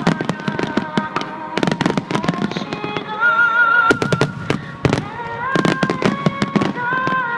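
Fireworks shells bursting in quick succession, a dense run of sharp bangs and cracks, over music with long held notes played across the venue.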